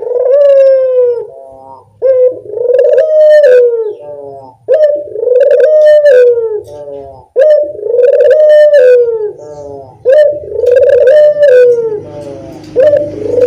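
A puter dove (collared dove) cooing: the same loud call repeated about every two and a half seconds, each a short note followed by a longer rolling coo. This is a lure call used to set other puter doves calling.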